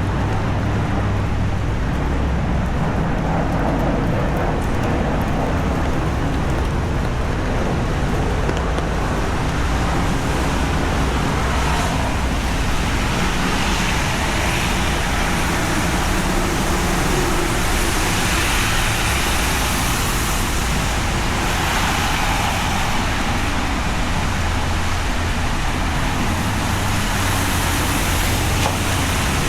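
Steady heavy rain on a city street mixed with road traffic, with a low rumble underneath. The hiss swells several times in the second half, as vehicles pass on the wet road.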